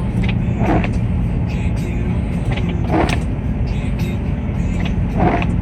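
Car engine and road noise, a steady low rumble with a hum, heard from inside the car. A short swish comes back about every two seconds.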